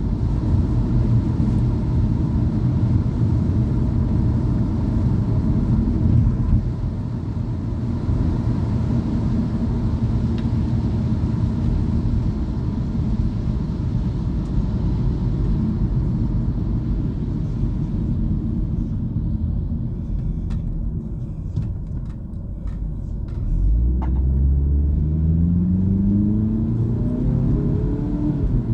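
Car engine and road rumble heard from inside a moving car on wet roads. Near the end the engine speeds up, its pitch rising as the car accelerates.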